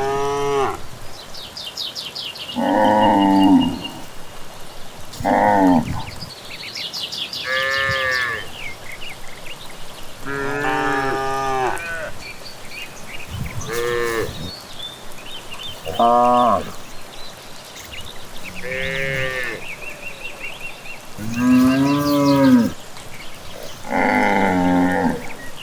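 Cattle mooing over and over, about ten calls of a second or so each, some rising then falling in pitch, with the loudest around the middle and near the end. Birds chirp and trill faintly between the moos.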